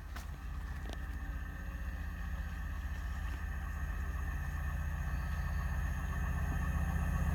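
Class 68 diesel locomotive approaching, its engine running with a steady low drone that grows louder throughout.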